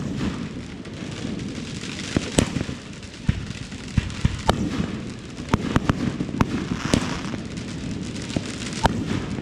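Consumer fireworks going off: about a dozen sharp pops and bangs at irregular intervals, over a steady crackling hiss.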